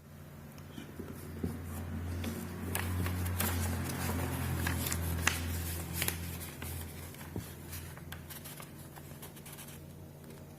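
A sheet of paper being handled and folded by hand: rustling and scraping with sharp crinkles and creasing snaps, over a low steady hum.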